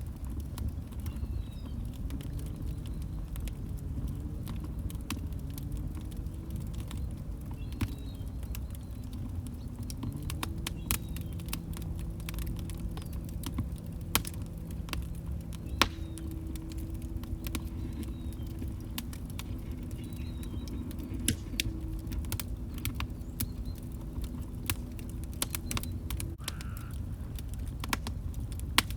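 Wood fire crackling in a fireplace: irregular sharp pops and snaps over a steady low rumble of burning logs, with several louder pops. A faint low tone wavers under it, then holds steady from about ten seconds in until shortly before the end.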